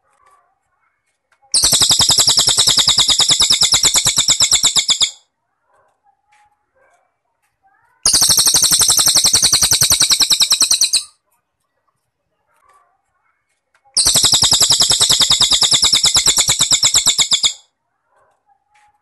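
Cricket (jangkrik) trilling in three long bursts of about three and a half seconds each, every burst a fast, even run of high-pitched pulses. Faint scattered chirps fall in the gaps between the bursts.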